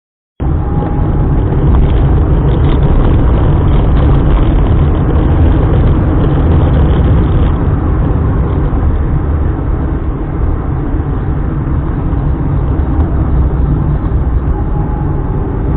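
Steady noise of a car being driven, heavy in the low end, starting abruptly about half a second in.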